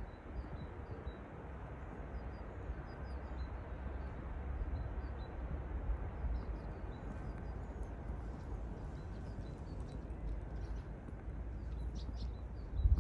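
Small birds chirping, short high calls repeated again and again over a steady low rumble of outdoor ambience. Near the end, footsteps on snow start up.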